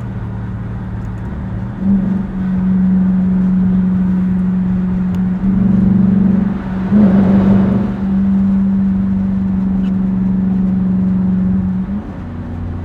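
Straight-piped 5.7-litre Hemi V8 of a 2021 Dodge Durango R/T, run through an H-pipe and race-bullet resonators, droning steadily at highway speed. Its level swells and drops a few times as the throttle changes, with a rushing swell about seven seconds in.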